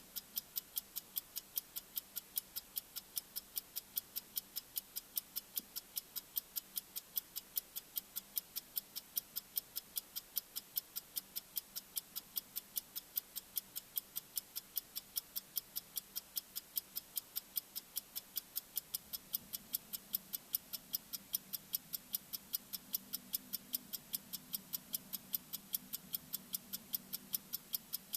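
Bomb-timer ticking sound effect: sharp, high-pitched clock ticks, steady at about three a second. A faint low tone runs underneath and grows a little stronger about two-thirds of the way in.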